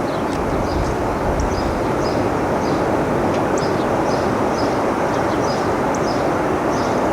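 Steady rushing roar of wind from an approaching tornado, with many small birds chirping over it.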